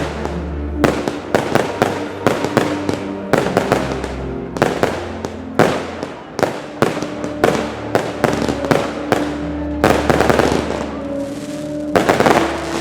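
Fireworks display: aerial shells and salutes bursting in a rapid, irregular string, two or three bangs a second, with a dense cluster near the end, over music playing.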